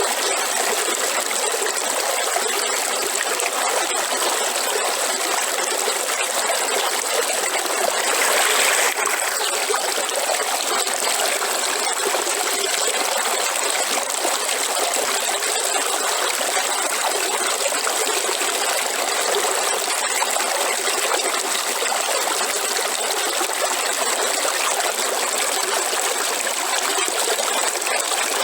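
River water flowing steadily, with a brief louder rush about eight seconds in.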